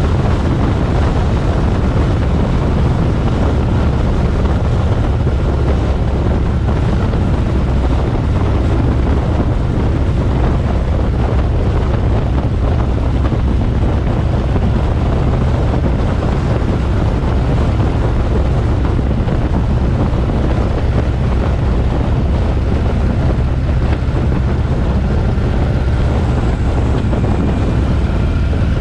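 Harley-Davidson motorcycle riding at a steady pace, the engine's low rumble running under heavy wind noise on the microphone.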